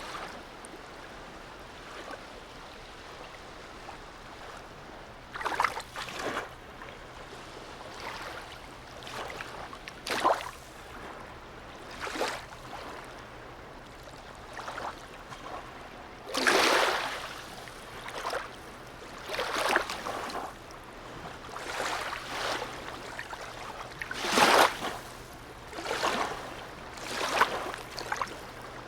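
Small harbour waves lapping and slapping against a quay or hull at irregular intervals, each slap a short splash, over a faint steady low hum.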